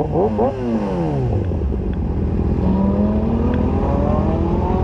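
Motorcycle engine revving up sharply, then falling in pitch over about a second and a half as it slows, then climbing steadily again as it accelerates.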